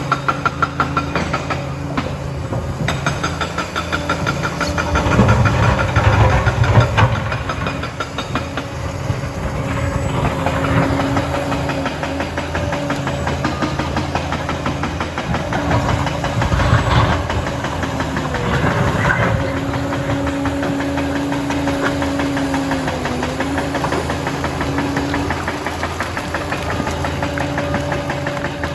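Liebherr 746 crawler dozer's diesel engine running steadily as the machine works, with louder surges of noise a few seconds in and again about two-thirds of the way through.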